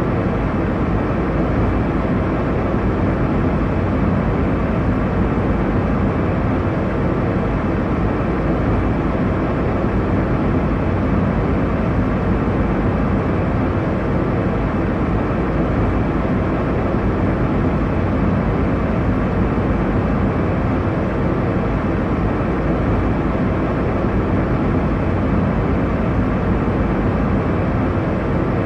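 Airliner cabin noise in cruise: a steady, even rush of engine and airflow noise, deepest in the low range, with no changes.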